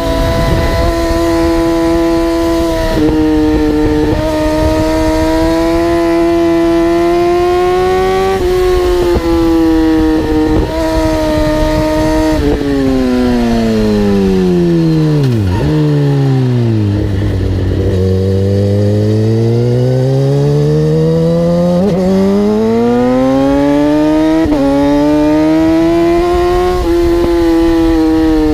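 High-revving vehicle engine, most likely a superbike's, held at high revs under load, with the pitch dropping sharply every few seconds as it shifts gear. About halfway through the revs fall steadily for several seconds to a low note, then climb back up through more gear changes.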